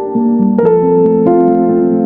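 Piano music, with notes and chords struck about every half second and each left ringing.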